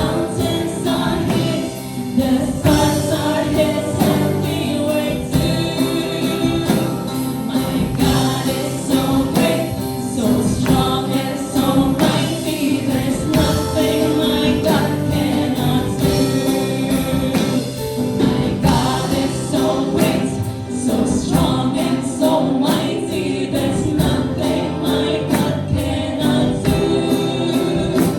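A worship team singing a Christian worship song as a group, with band accompaniment.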